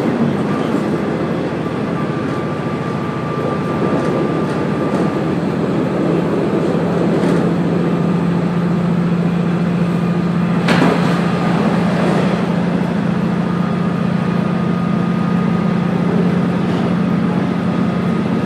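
KiHa 48-based diesel railcar running along the line, a steady engine drone under the wheel and running noise. There is a single sharp click about eleven seconds in.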